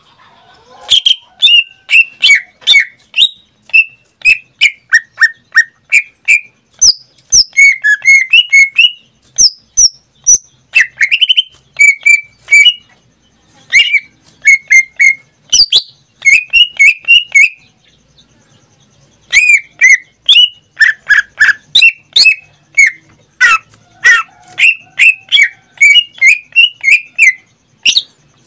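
Pet cucak ijo (green leafbird) singing in full voice: rapid strings of short, sharp whistled notes, many dropping in pitch, with a pause of about a second and a half just past the middle.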